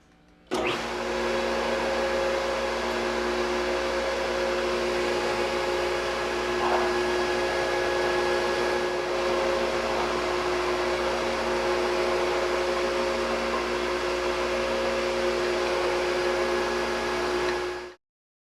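Milling machine running steadily with a steady hum, its cutter taking a 2.5 mm pass along a steel bar being milled square into a punching drift. Starts about half a second in and cuts off abruptly near the end.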